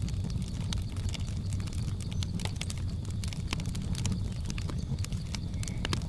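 Wood fire crackling: frequent sharp pops and snaps over a steady low rumble of the flames.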